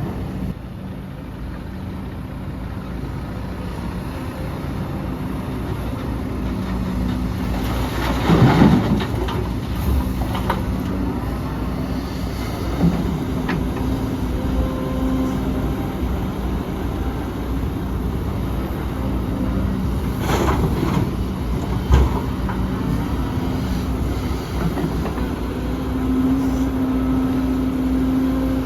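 Heavy diesel earthmoving machinery running steadily with a low engine hum. Two louder rushing bursts come about 8 and 20 seconds in, and there are a few sharp metallic knocks.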